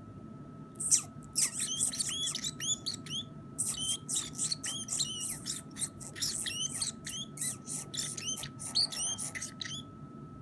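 Pacific parrotlet chattering: a rapid run of short, high chirps and squeaks, broken by a brief pause about three seconds in.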